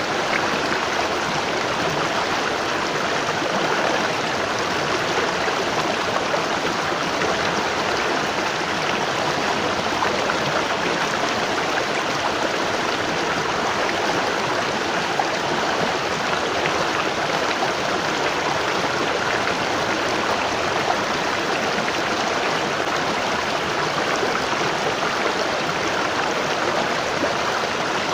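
Waterfall: water falling and rushing over rocks with a steady, even splashing.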